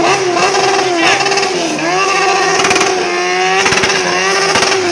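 Sports car engine revving hard and held high during a drift, its pitch wavering, dipping and climbing again about two seconds in, then dropping near the end.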